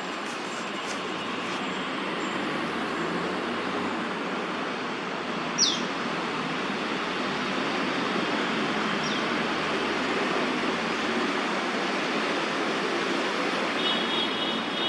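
Steady hum of city traffic. A short, sharp, falling whistled bird call cuts through about a third of the way in, and a fainter one follows a few seconds later.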